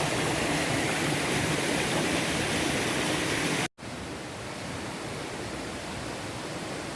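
Steady rushing outdoor noise, cut off sharply about four seconds in and then going on more quietly.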